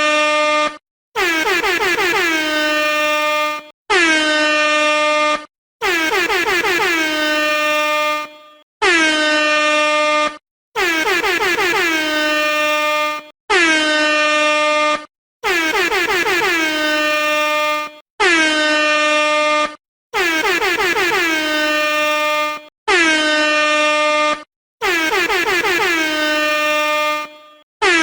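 Air horn blasting over and over, about a dozen loud blasts of one and a half to two and a half seconds each, with short gaps between them. Each blast drops in pitch at its start and then holds a steady blaring tone.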